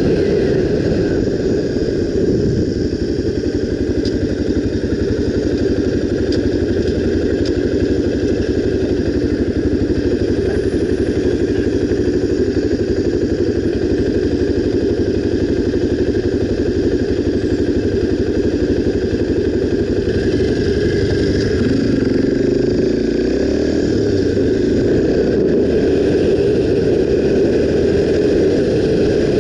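Honda XR 250 Tornado's single-cylinder four-stroke engine running steadily on the move, its note climbing briefly about twenty seconds in as it speeds up.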